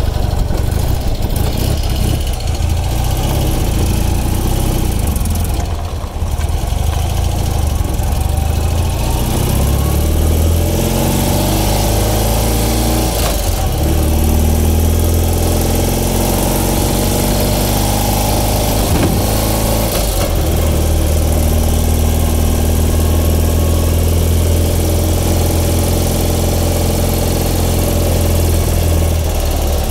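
1976 BMW R60/6's air-cooled flat-twin engine idling, then pulling away about ten seconds in, rising in pitch with gear changes at about 13 and 20 seconds, then running steadily at road speed, heard from the sidecar.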